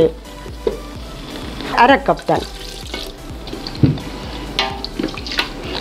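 Onion-tomato biryani masala sizzling in a pot while a wooden spatula stirs it, with a steady frying hiss and scattered scrapes and knocks of the spatula against the pot.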